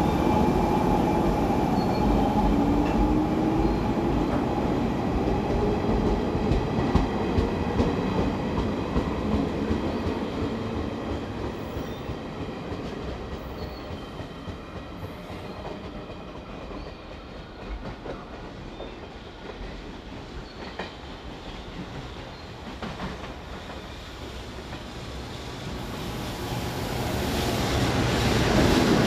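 A yellow local electric train pulling away from the platform, its motor whine rising in pitch as it speeds up, with wheels clacking over the rail joints, fading over the first dozen seconds. After a quieter stretch, a JR Freight EF210 electric locomotive comes through, getting loud near the end.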